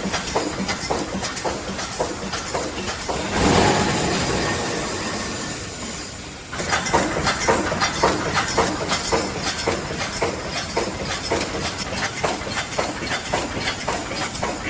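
Pneumatic chicken-cage wire mesh welding machine running: rapid, repeated clacking of its welding strokes. About three seconds in, a loud hiss of air starts suddenly, fades over about three seconds and cuts off, and then the clacking carries on.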